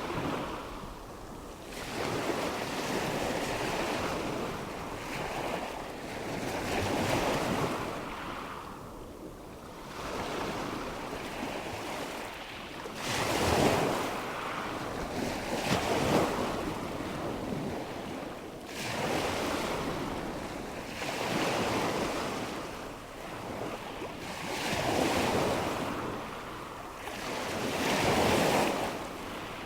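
Waves washing onto a shore in a steady rush, each surge swelling and falling back every few seconds.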